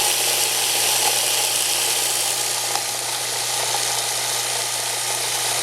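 InSinkErator 3/4 hp garbage disposal running steadily, a constant low motor hum under an even hiss.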